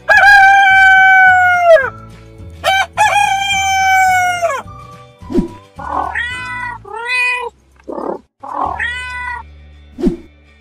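A rooster crowing twice, with long calls, then a cat meowing three times, over background music with a steady low beat.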